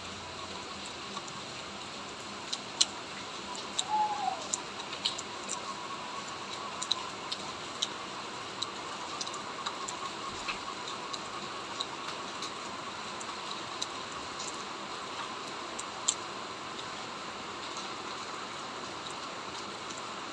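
Light rain falling: a steady hiss with irregular drops ticking close by, about one or two a second.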